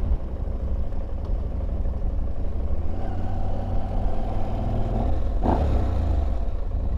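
Motorcycle running at a steady cruising speed, its engine note under a continuous low rumble of wind on the microphone.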